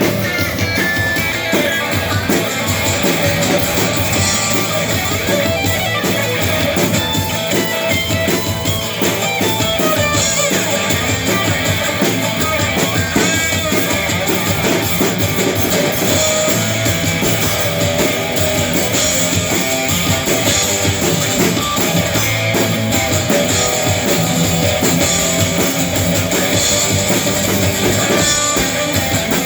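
Live rock band playing an instrumental passage: electric guitars with a steady drum-kit beat, no singing.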